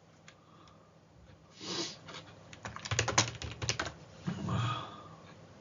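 Typing on a computer keyboard: a quick run of keystrokes about three seconds in, with a few scattered sounds before and after.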